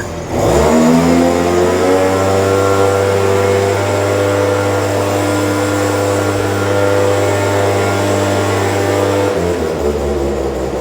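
Stihl BG 86C handheld leaf blower's small two-stroke engine revving up quickly and held steady at high throttle, dipping briefly near the end before climbing again.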